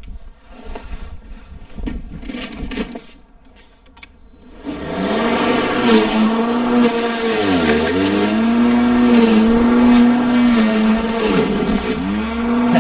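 Ozito PXC 36V battery lawn mower's electric motor and blade starting up after a few seconds of knocks and clicks, then running with a steady whine. Its pitch dips briefly and recovers about three times as it cuts grass.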